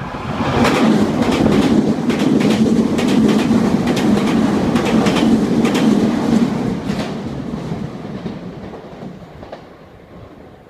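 Red Meitetsu express, a 3100 series and 3500 series electric train coupled together, passing through the station at speed without stopping. Its wheels clatter loudly over the rail joints for about six seconds, then the sound fades away as the train leaves.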